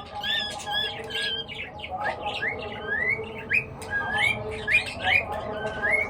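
Several birds chirping and squawking together in quick, overlapping calls: repeated short arched chirps at first, then from about two seconds in a run of short rising notes.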